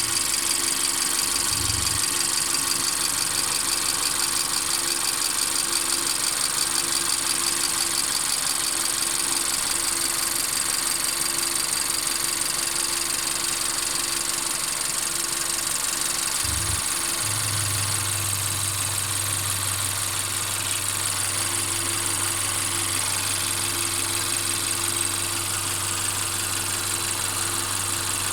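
Mercedes-Benz CLA 250's 2.0-litre turbocharged four-cylinder engine running at idle, with a continuous rattle that the owner reports as present throughout the recording. Its low drone grows stronger about two-thirds of the way through.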